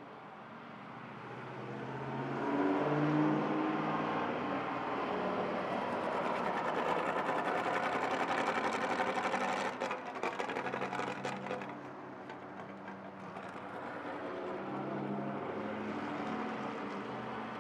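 Vintage straight-eight car engine pulling hard, its pitch stepping up through the gears, then backing off about ten seconds in with a few sharp crackles before running on more quietly.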